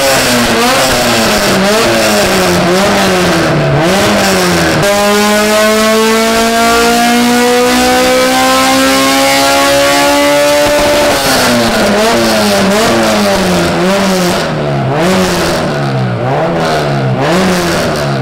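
Tuned hatchback's engine running on a chassis dyno. It is revved up and down in quick blips, then held through a steady pull with the revs rising smoothly for about six seconds, then blipped up and down again.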